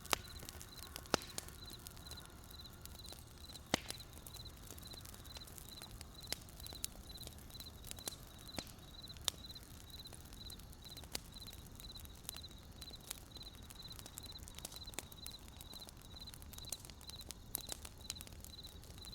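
Wood campfire crackling, with sharp pops now and then, the loudest just after the start and about four seconds in. Over it a cricket chirps steadily at a high pitch, about two chirps a second.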